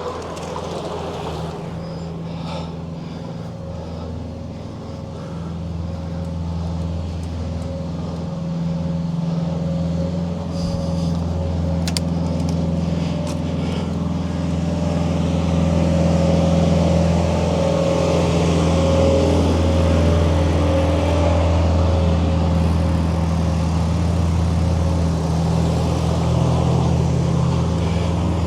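A motor vehicle engine running close by: a steady low hum that grows louder over the first fifteen seconds or so, then cuts off abruptly at the end. A single sharp click is heard about twelve seconds in.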